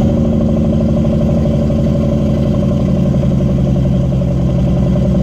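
Cat C15 diesel engine's compression-release engine brake (Jake brake) engaged, a steady, rapid staccato from the engine and exhaust as the truck slows. It sounds "gorgeous", like snoring.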